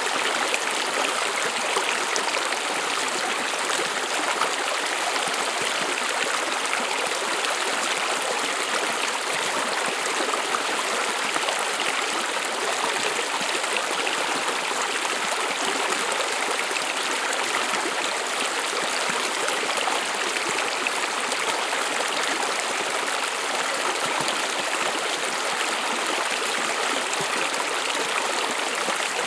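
A shallow stream running over stones, a steady, even rush of flowing water.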